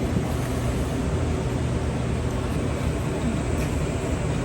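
Steady, even background noise with a low hum underneath, unchanging throughout.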